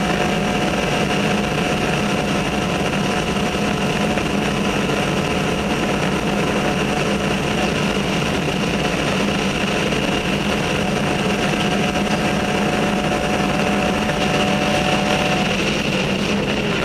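BMW E46 M3 race car's engine heard from inside the cockpit, pulling at steady revs along a straight, with a continuous rush of wind and tyre noise. Near the end the engine note changes and eases slightly.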